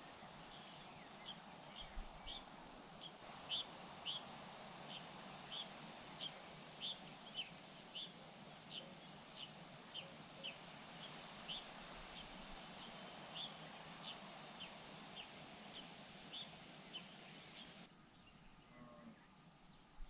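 A bird's high, thin chirps, each short and falling, repeated about twice a second over a steady outdoor hiss. The hiss drops away suddenly near the end.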